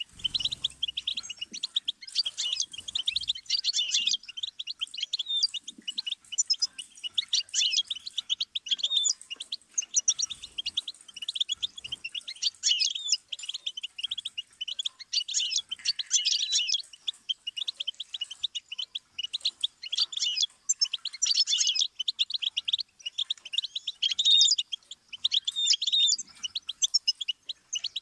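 Goldfinch singing a long, continuous song of rapid high-pitched twittering and trilled notes, with hardly a pause.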